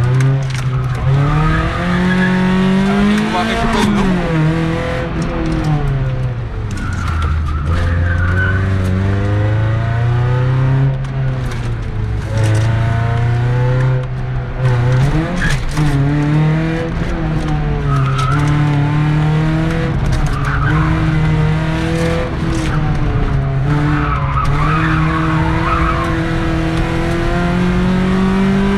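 Toyota Celica 2.0 GTi's four-cylinder engine driven hard, its pitch rising and falling again and again through gear changes and lifts. Tyres squeal in short bursts several times, with a longer squeal about three-quarters of the way through.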